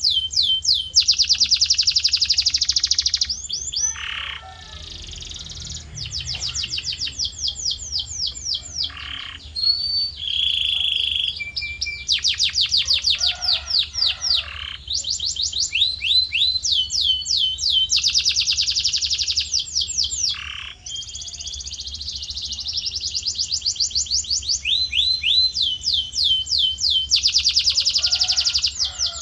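Male domestic canary singing in long trills of rapidly repeated falling notes, switching from one tour to the next, with short breaks and a few lower buzzy notes between them.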